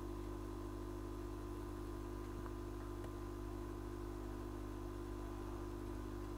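Steady electrical hum from repair-bench equipment, unchanging, with a faint steady tone higher up.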